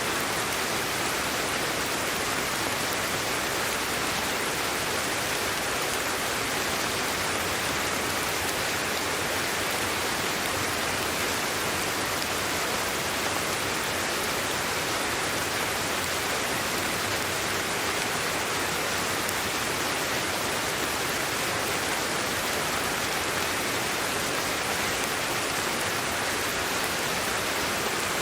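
Steady sleep-aid noise track: an even, unbroken hiss, strongest in the middle and upper range.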